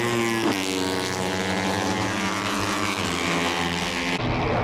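Moto3 race bikes' 250 cc single-cylinder four-stroke engines running at high revs past the grandstand. The engine note drops in pitch about half a second in, then holds steady, and the sound changes abruptly near the end.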